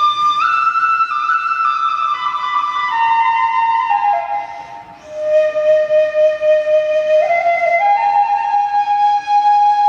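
Kagura bamboo flute (fue) playing a slow melody of long held notes that step downward. There is a short breath break a little before the middle, then the line climbs again.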